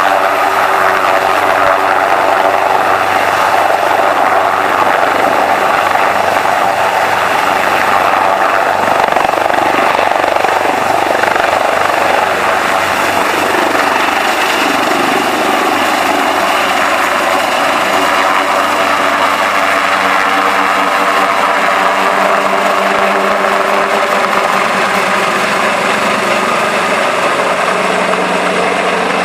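HM Coastguard search-and-rescue helicopter running loudly and steadily close by, its turbine whine and rotor noise constant, easing slightly near the end.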